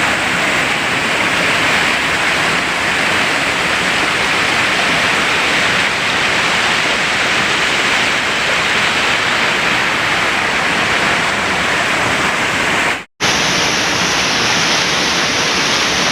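Waterfall close by: a loud, steady rush of falling water that cuts out for an instant about thirteen seconds in.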